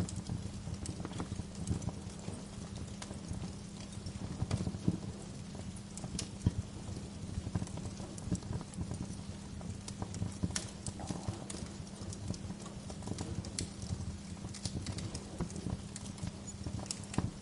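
Wood fire crackling, with irregular sharp pops scattered throughout over a steady low rumble.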